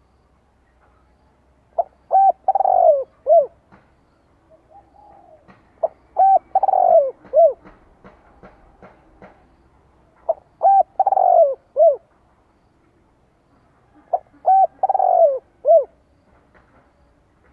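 Spotted dove cooing: four phrases about four seconds apart, each a few short notes followed by a longer falling note. It is the song of a decoy dove used to provoke wild males into coming to fight.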